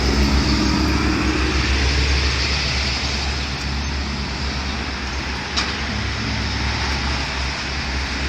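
Steady low engine rumble with road traffic noise, and a single sharp click about five and a half seconds in.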